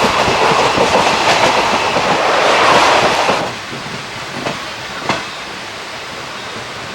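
Running noise of an ICF passenger coach on the move: a loud rush of wheels and rails with clickety-clack over the rail joints. The noise drops sharply about three and a half seconds in, to a quieter steady rumble with two sharp clicks.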